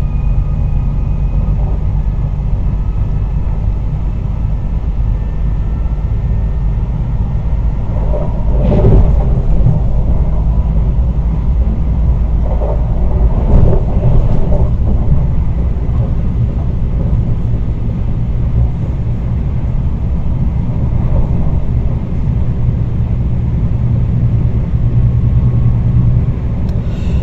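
Cabin sound of a Rhein-Ruhr-Express Siemens Desiro HC double-deck electric multiple unit accelerating hard at full power towards 100 mph: a steady, loud rumble of wheels on rails and running gear. Faint thin traction-motor tones fade out in the first few seconds, and brief clatters come about a third and halfway through.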